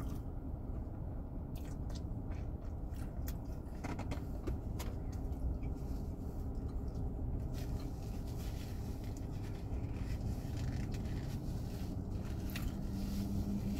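Close-up chewing of a Big Mac, with small wet mouth clicks and the occasional crinkle of the burger's paper wrapper, over a steady low hum.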